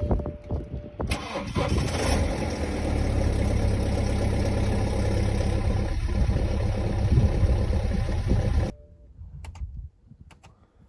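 BMW N47N four-cylinder diesel cold-starting: it turns over briefly, catches about a second in and runs loudly, with the cold-start timing chain noise that the owner puts down to chains, guides and tensioners at their wear limit. The engine sound cuts off abruptly near the end.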